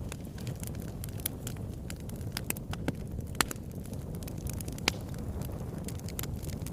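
Fire in a fireplace crackling, with frequent sharp pops over a steady low rumble of flames. Two louder pops come about a second and a half apart near the middle.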